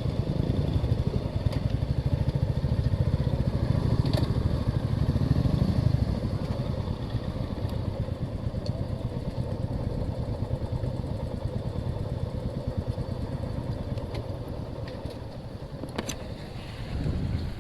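Motorcycle engines running with a steady low rumble, louder for the first six seconds or so and then easing off.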